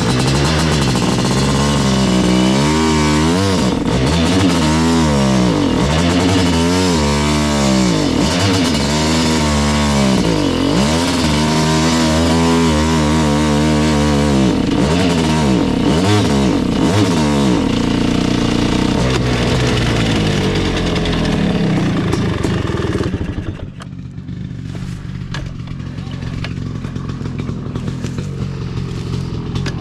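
1986 Kawasaki KX500's 500 cc single-cylinder two-stroke engine running through an FMF exhaust pipe, its revs rising and falling over and over about every second and a half. It steadies, then drops to a lower, quieter running about 23 seconds in.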